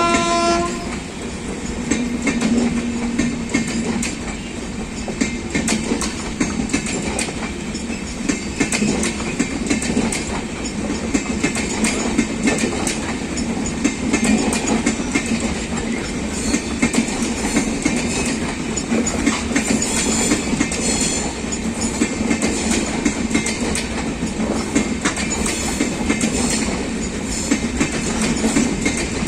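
Passenger coaches of an express train rolling past, their wheels clicking over rail joints in a continuous clickety-clack. A train horn's last note cuts off in the first moment.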